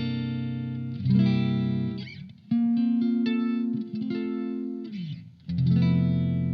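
Electric guitar played through a Blackstar ID Core Stereo 40 combo amp: chords struck about every one and a half seconds and left to ring out. Brief scratchy pick or string noise comes between some of the chords.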